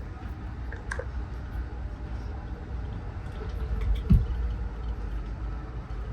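Steady low rumble of a moving Amtrak passenger train car, heard from inside, with a few light clicks about a second in and one loud thump about four seconds in.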